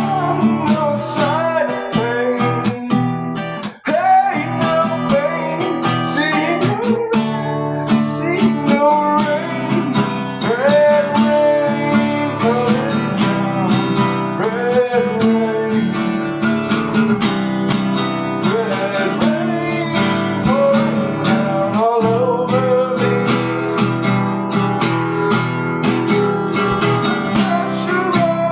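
Strummed acoustic guitar playing continuously, with a sung or melodic line bending over it.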